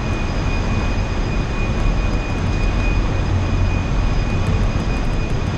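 Steady, loud machinery noise in a very large crude carrier's engine room while under way: a dense rush with a deep hum and a thin, steady high whine, unchanging throughout.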